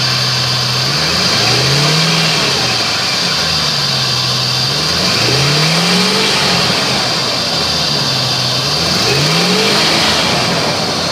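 2005 Jeep Grand Cherokee engine idling and revved up and back down three times. The engine has a slight exhaust leak.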